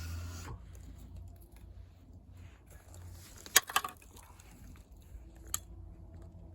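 A few sharp knocks and clicks of wood being handled, with a cluster of them about three and a half seconds in and one more near the end, over light rustling.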